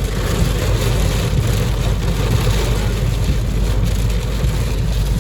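Steady engine and road rumble of a moving vehicle, with an even hiss above it.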